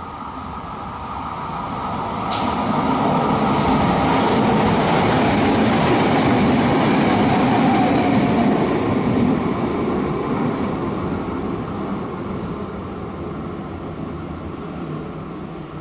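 Train passing through the station: the rumble of its wheels on the rails builds over the first few seconds, stays loud, then fades away. A sharp click comes about two seconds in.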